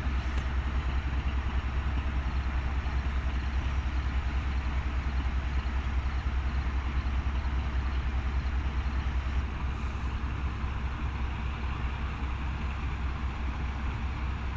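Pakistan Railways ZCU-30 diesel locomotive's engine running steadily with a deep, rapid low throb.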